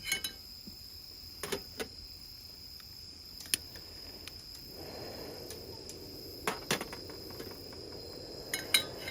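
Cookware clinking and knocking as meat goes onto a camp frying pan, with a steady sizzle starting about halfway through. Crickets chirp steadily in the background.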